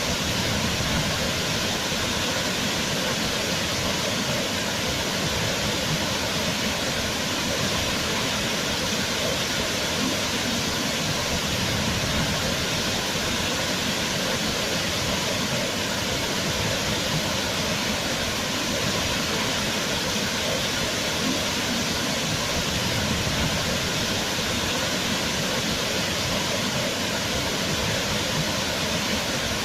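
Waterfall: water falling and splashing in a steady, loud rush without change.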